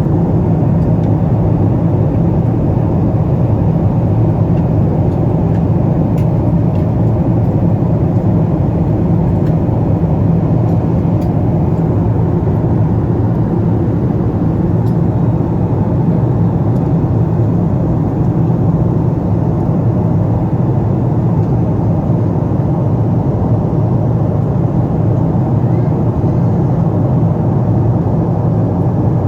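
Steady cabin drone of a Boeing 777-200 airliner in flight: engine and airflow noise heard from inside the cabin, low and unchanging.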